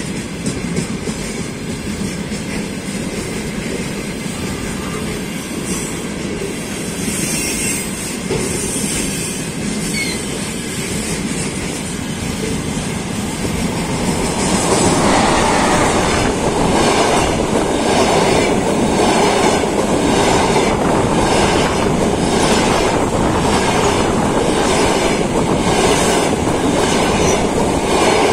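Freight train of railway tank cars rolling past with steady wheel-on-rail noise. About fifteen seconds in, a train of double-deck passenger coaches hauled by an EP20 electric locomotive passes on the near track and the noise grows louder, with the wheels clicking over rail joints about once a second.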